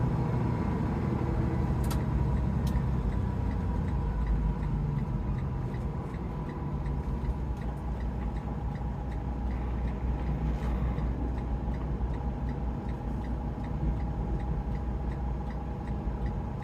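Cab interior of a 2012 Freightliner Cascadia semi pulling a loaded trailer: a steady engine and road rumble, with a regular ticking of about two a second, typical of a turn-signal flasher, clearest in the second half.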